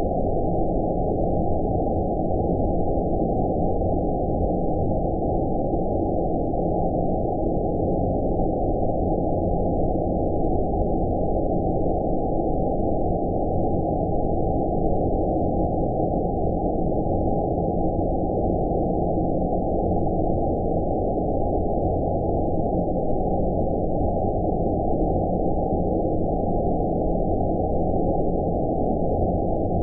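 Steady, unchanging deep rushing noise with all the high end filtered away, so it sounds muffled and rumbly rather than hissy: a 'space noise' sleep track.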